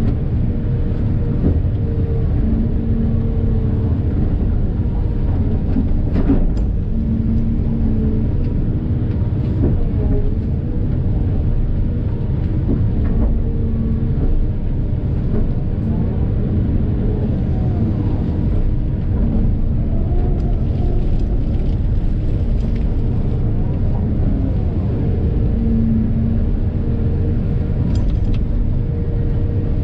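45-tonne Volvo crawler excavator at work: the diesel engine runs with a steady low drone while a hum comes and goes as the hydraulics take load, with a few brief knocks.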